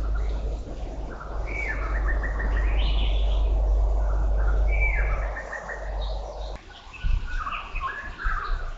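Birds chirping and singing in short repeated phrases, over a steady low rumble that drops away about two-thirds of the way in.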